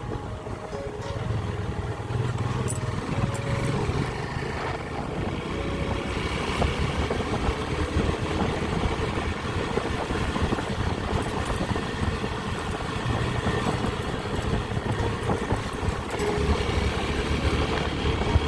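Small motorcycle engine running steadily while being ridden, with road and wind noise; the engine hum swells and fades a little at times.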